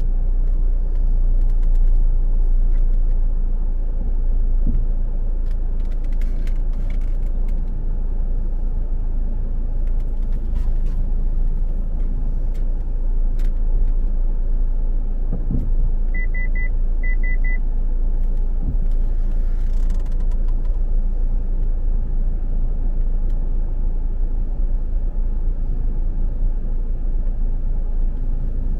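Steady low rumble of a vehicle in motion, like road noise inside a car, with four short high beeps in two quick pairs partway through.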